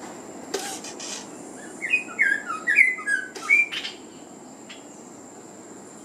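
A small brown songbird giving a quick run of about a dozen sharp chirps over roughly two seconds, between short bursts of wing-flapping and bumping against a car's door and side mirror. This is a bird fighting its own reflection in the mirror.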